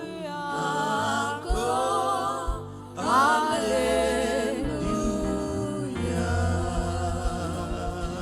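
Gospel worship music: sung melody with long, wavering held notes over low sustained bass notes that change every second or two.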